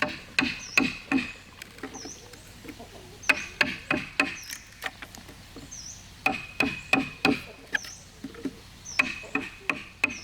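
Hammer blows on timber, as when cutting holes and joining beams. They come in runs of three or four strikes, about three a second, with pauses between the runs, and each blow rings briefly.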